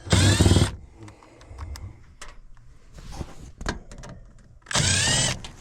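Air handler's failing blower motor trying to come on: two short loud bursts of noise about four seconds apart. The motor can't get going and it is the part that needs replacing.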